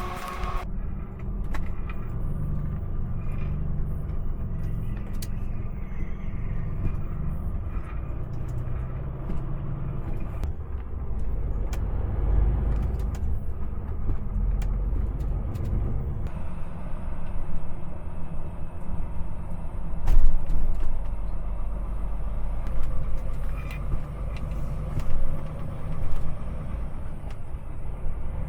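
Steady low rumble of a heavy truck's engine and running gear, with a few scattered clicks and a brief louder swell about twenty seconds in.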